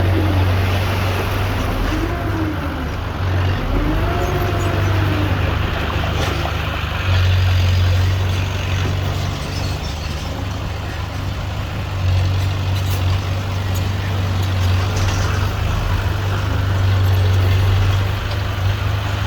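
Heavy diesel engine of earthmoving machinery running continuously, its level swelling and easing as it works under load. Two short rising-and-falling whines sound a few seconds in.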